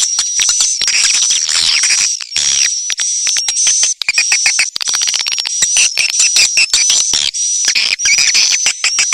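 Swiftlet lure sound of the kind played from swiftlet houses: a dense, continuous chorus of rapid twittering chirps and clicks from edible-nest swiftlets, over a steady high whine, with almost no low end.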